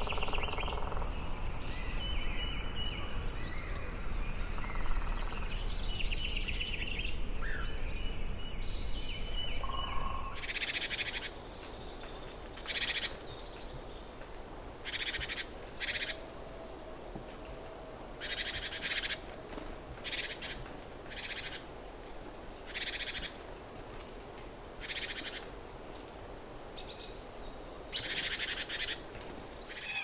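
Birds calling over a background ambience. For the first ten seconds there is a steady low rumble with scattered chirps. After an abrupt change, sharp falling chirps, often in pairs, sound among short hissy bursts.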